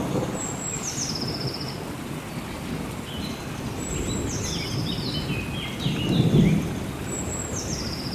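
Steady rain with rolling thunder, rumbling near the start and loudest about six seconds in. Over it a bird calls three times, a high phrase that steps down in pitch and ends in a quick trill, with lower chirping calls in between.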